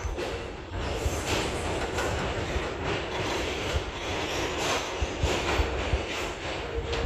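R142 subway train moving on the rails: a steady rumble with irregular low knocks from the wheels.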